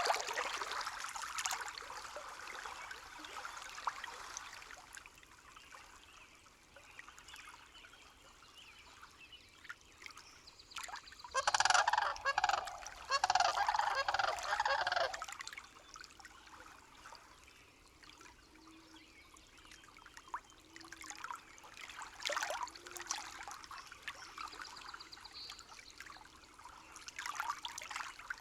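A bird giving a rapid run of honking calls for about three seconds near the middle, over a faint steady trickle of water.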